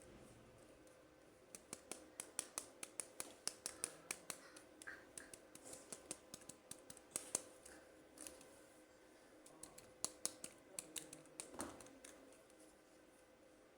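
Quick runs of sharp clicks and snips from handling toy packaging during an unboxing, about three or four a second, in two bursts with a short pause between them.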